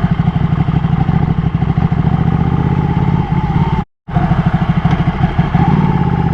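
Ducati motorcycle engine running steadily with an even low pulse and no revving. Just past the middle, the sound cuts out completely for about a quarter second.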